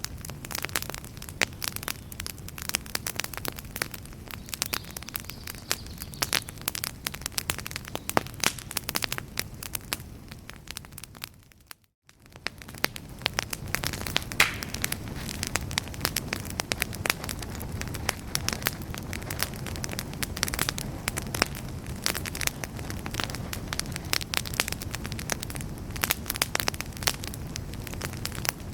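Wood campfire crackling: many sharp pops and snaps over a steady low rumble of the flames. About twelve seconds in, the sound fades briefly to near silence, then the crackling returns.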